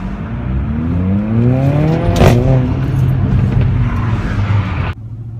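Mercedes-AMG CLA45's turbocharged four-cylinder engine pulling hard under acceleration, the revs climbing for about two seconds, then a sharp crack at the gear change before it pulls on. The sound cuts off suddenly near the end.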